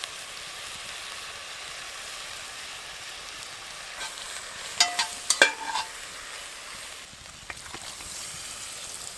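Beef and onions sizzling steadily in oil in a Dutch oven over a campfire, with a few short metallic clinks about five seconds in.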